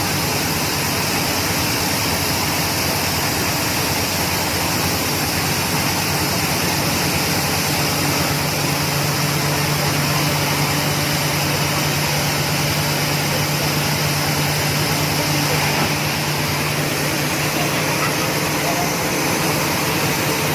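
Large water-well drilling rig running steadily: a constant engine hum under a loud, even hiss of machine noise, with no change in pace.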